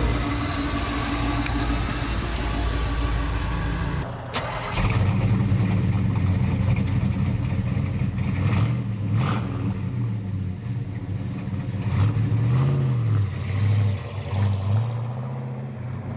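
Car engines on the move: a steady engine drone, then, after a cut about four seconds in, a Chevrolet LS6 V8 running with its pitch rising and falling several times as the car accelerates and shifts.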